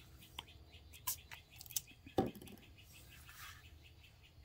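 Faint songbird chirping, with a quick run of repeated chirps through the second half. A few light taps and clicks come from hands handling journal pages and a paintbrush.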